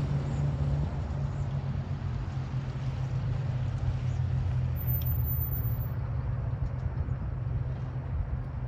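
2006 Chevy Silverado 1500 pickup driven slowly through a three-point turn, its engine running with a steady low hum.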